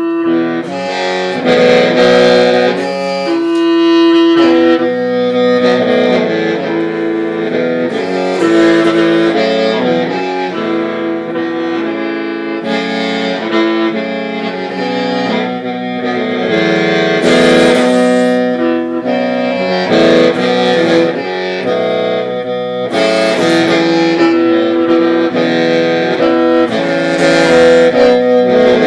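Hmong qeej (lusheng), a bamboo free-reed mouth organ, playing a melody with several pipes sounding together as chords, the notes held and shifting every second or so.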